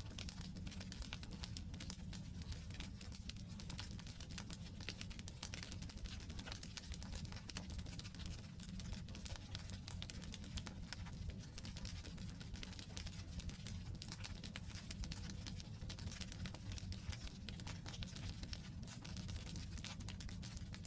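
Wood campfire crackling: a steady stream of small sharp snaps and pops from the burning logs over a low, even rumble of the flames.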